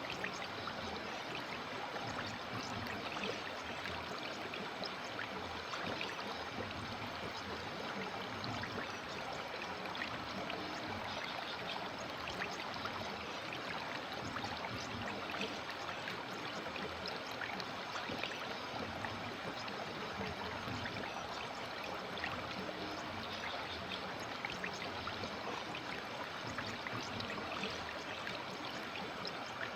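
River water flowing and babbling over stones, a steady rushing with many small splashes and trickles.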